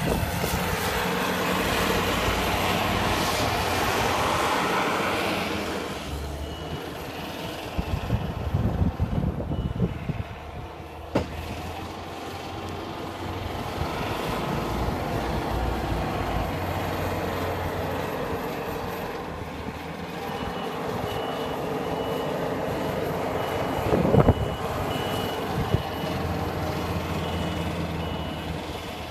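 A heavy vehicle's engine running, with a high reversing-alarm beep repeating about once a second for stretches, and a few sharp knocks, loudest about a quarter of the way in and near the end.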